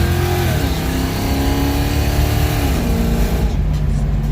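1978 Chevrolet Malibu's 383 stroker small-block V8 with long-tube headers under throttle, its pitch dropping about half a second in and again near three seconds in as the driver lets off, then settling to a lower steady drone.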